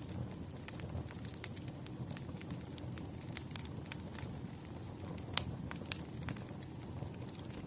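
Wood fire burning, crackling and popping irregularly over a steady low rumble, with the sharpest pop about five seconds in.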